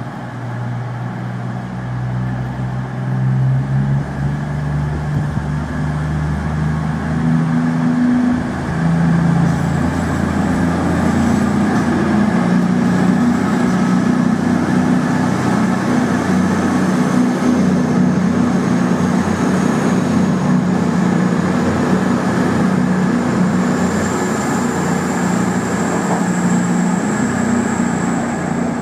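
Diesel train engine pulling away and accelerating: its low note steps up in pitch over the first few seconds and then holds steady, while a faint high whine climbs slowly in pitch.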